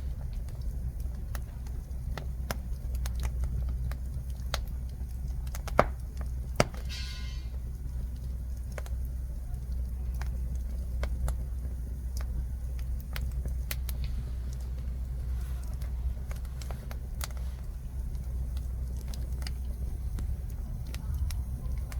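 Jujube-wood fire crackling: scattered sharp pops and ticks over a steady low rumble, with two louder pops about six seconds in followed by a brief hiss.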